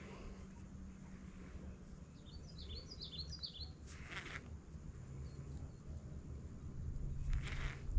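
A small bird gives a quick run of high chirps about a third of the way in, over a steady low hum and rumble that drops in pitch about halfway through. There are two short hissing noises, about four seconds in and near the end.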